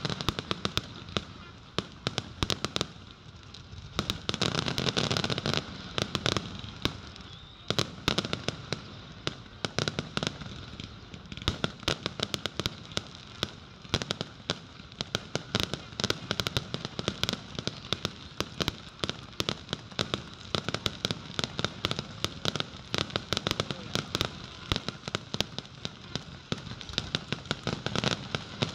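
Aerial fireworks shells bursting in rapid succession: a dense run of sharp bangs and crackles, many per second.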